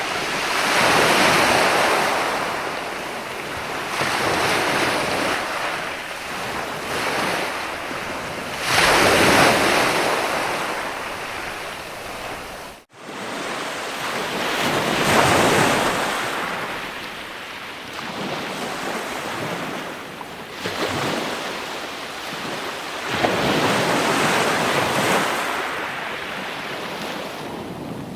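Ocean waves breaking and washing in, a rushing surge every four to six seconds, with a momentary cut-out about halfway through.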